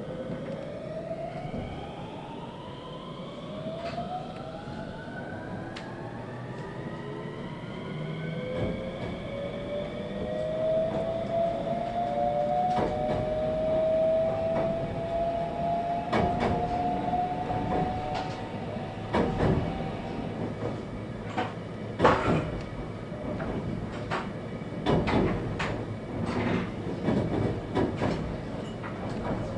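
521 series electric train accelerating away from a stop, heard from inside the car: its traction motors and inverter whine in several rising tones for the first twenty seconds or so. As speed builds, the wheels start clacking over rail joints.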